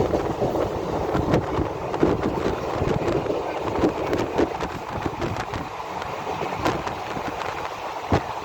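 Purushottam Express passenger train running at speed: a steady rumble of wheels on rail with irregular sharp clicks and knocks.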